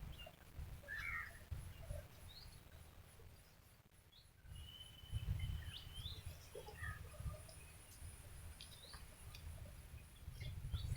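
Birds chirping and whistling faintly, scattered short calls with one longer held whistle about halfway through, over a thin, steady, pulsing high note and bursts of low rumble on the microphone.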